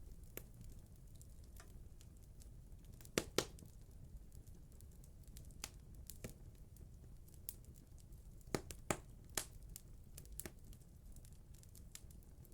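Wood fire crackling in a fireplace's cast-iron firebox: a steady low rumble of burning with scattered sharp pops and snaps, the loudest a close pair about three seconds in and a cluster of three around nine seconds in.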